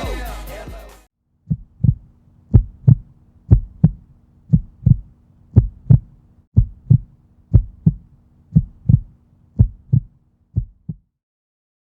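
Heartbeat sound effect: paired lub-dub thumps about once a second over a faint steady hum, after music fades out in the first second.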